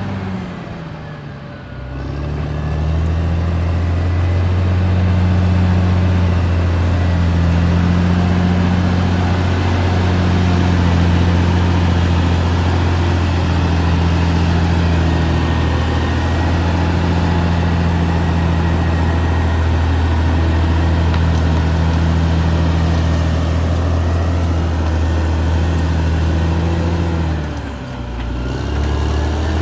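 Caterpillar D6R XL bulldozer's diesel engine running steadily, working under load. The engine note sags in pitch and level briefly just after the start and again near the end, then picks back up.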